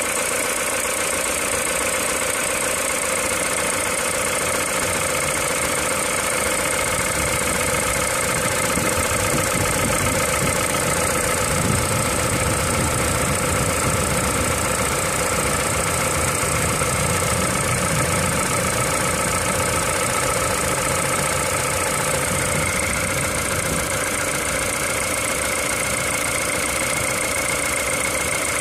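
Peugeot 207 VTi 120's 1.6-litre four-cylinder petrol engine idling steadily from a cold start.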